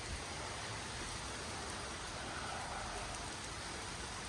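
Steady rain falling, an even hiss with no distinct drops or gusts standing out.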